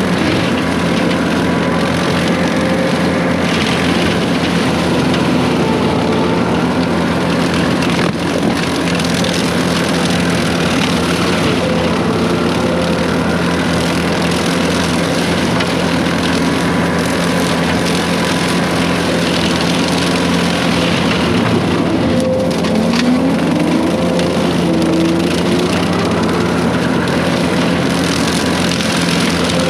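Case 140 excavator's diesel engine running steadily under load while brush cutting, with short rising hydraulic whines about three quarters of the way through.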